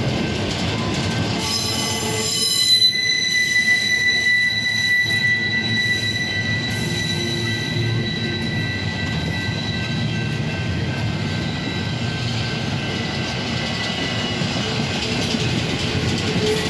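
Freight train cars of a mixed intermodal train rolling past, with the wheels letting out a high, steady squeal that starts about two seconds in and slowly fades over the rest of the pass.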